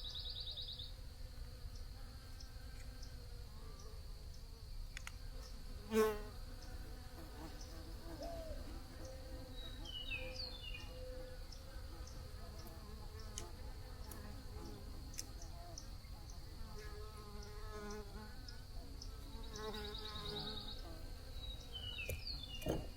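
Bees buzzing, their hum wavering in pitch as they move about, over a steady high-pitched insect trill. A sharp click about six seconds in is the loudest sound, and a few short high chirps come near the middle and near the end.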